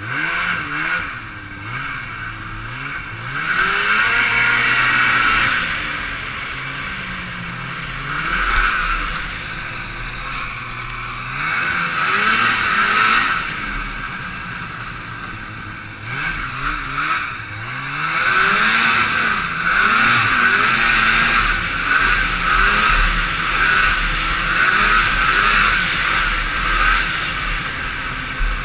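Two-stroke Ski-Doo snowmobile engine revving up and falling back again and again as the sled is ridden hard, heard from a helmet camera with a steady rush of wind and track noise.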